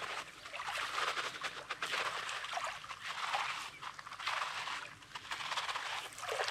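Footsteps crunching on coarse, pebbly beach sand, about one step a second.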